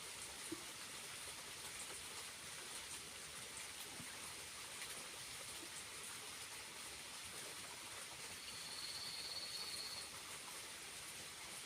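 Water from a small waterfall running steadily, an even splashing hiss. A brief high-pitched buzz rises over it for about a second and a half near the end.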